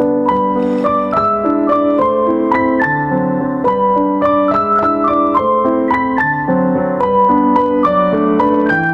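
Background music: a piano or electric piano playing a flowing melody over held lower notes.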